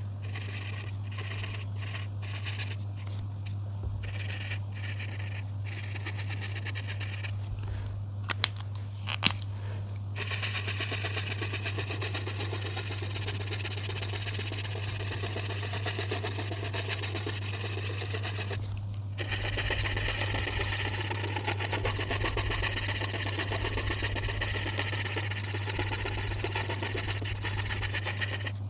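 A colouring tool scratching on paper, in short strokes with small gaps at first, with two sharp clicks about eight and nine seconds in, then long continuous strokes with a brief pause near the end. A steady low hum runs underneath.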